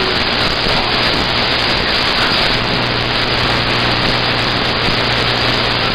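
CB radio receiver hissing with open-channel static between transmissions, a steady rush of noise with a low hum joining about halfway through.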